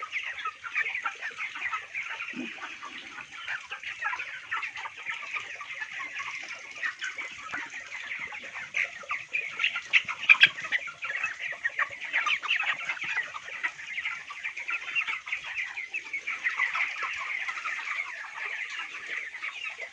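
A large flock of 26-day-old broiler chickens peeping and cheeping all at once, a dense, continuous chatter of short high calls.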